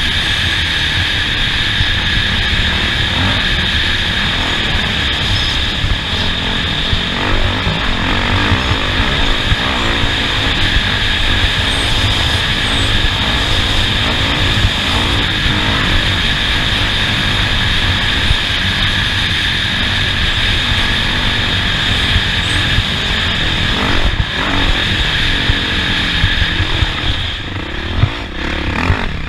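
Off-road race vehicle under way on a dirt track, its engine running steadily with knocks and rattles from the rough ground. A steady high whine runs through and drops away near the end.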